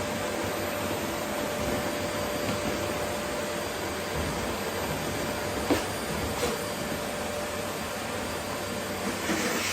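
Vacuum cleaner running steadily, an even rushing noise with a faint steady whine in it. A sharp click about six seconds in and a smaller one just after, and the hiss grows brighter near the end.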